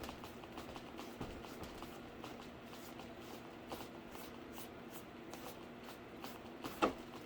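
Paint being stroked onto a cardboard PC case: a run of short, scratchy strokes, a few a second, with one louder knock near the end.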